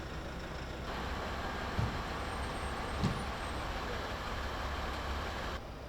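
Steady road-vehicle noise with two low thumps about a second apart.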